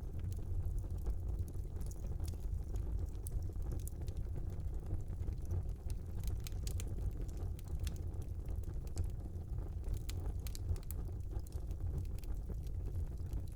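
Fire burning in a small fireplace: a steady low rumble of flames with scattered sharp crackles and pops, bunched in a few quick clusters.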